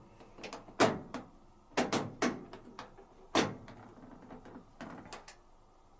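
An old washing machine's mechanical program selector knob being turned, clicking through its notches: a series of about seven sharp clicks at irregular intervals, some in quick pairs.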